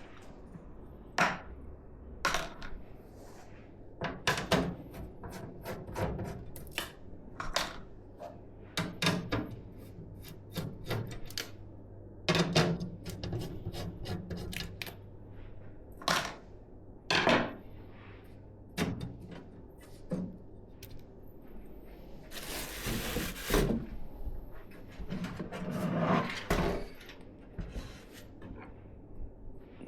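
Hands handling PC parts and hardware: scattered small clicks, taps and knocks throughout, with a burst of rustling about 23 seconds in and a softer one a few seconds later.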